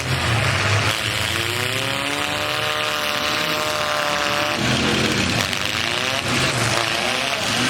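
Stripped-down pickup truck engines revving in a demolition derby, the pitch rising and falling over a steady roar.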